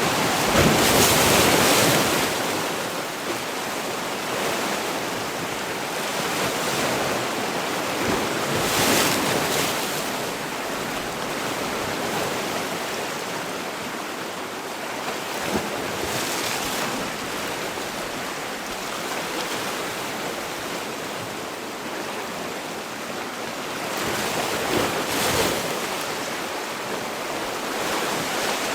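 Sea waves breaking and washing on the shore in a steady rush, with louder surges about a second in, at about nine seconds, and near the end.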